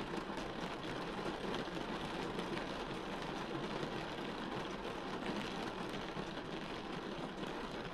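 Steady rain falling, an even hiss flecked with many small patters.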